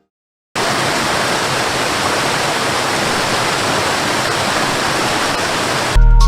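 Steady, even rushing noise that comes in about half a second in after a brief silence and cuts off suddenly near the end as music starts.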